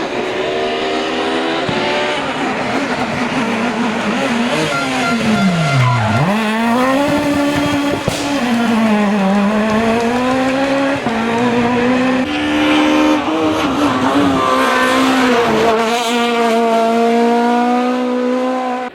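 A Super 1600 rally car's engine running hard under load, its revs climbing and stepping down at gear changes a few times. About six seconds in the revs fall steeply and then climb again.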